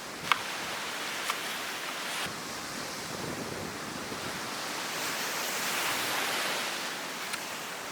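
Surf washing onto the beach with wind, the wash swelling a little past the middle, and a few sharp clicks in the first seconds.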